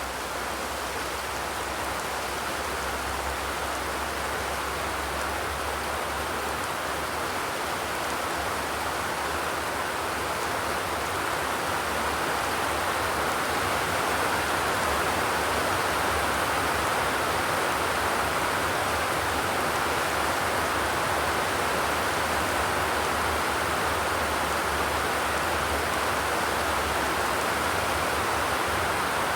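Steady heavy rainfall, a dense even hiss with no thunder, growing slightly louder over the first dozen seconds.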